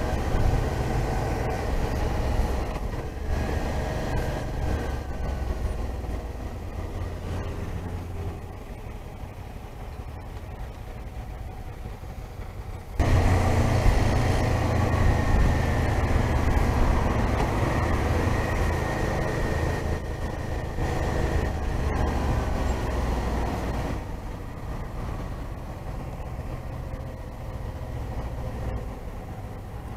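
Suzuki V-Strom 650's V-twin engine running under way, with wind and road noise. About thirteen seconds in, the whole sound jumps abruptly louder, then eases back down.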